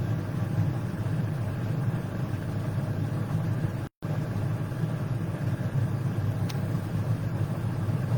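Steady low background hum or rumble, with a brief dropout to silence about four seconds in.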